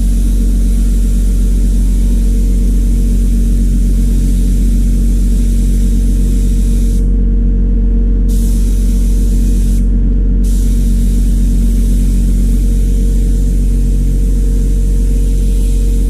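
Pressure washer spraying water onto an air conditioner condenser coil: a steady motor-and-pump hum under the hiss of the spray. The spray cuts out for about a second around seven seconds in and briefly again around ten seconds, while the hum keeps running.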